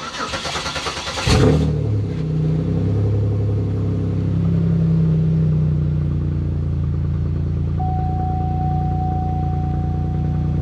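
Straight-piped Pontiac Bonneville 3800 V6 being started after a spark plug change: the starter cranks for about a second and a half, then the engine catches with a brief flare and settles into a steady, loud idle. It is running without shaking, firing on all cylinders on the fresh plugs. About three seconds before the end a steady electronic tone starts up alongside it.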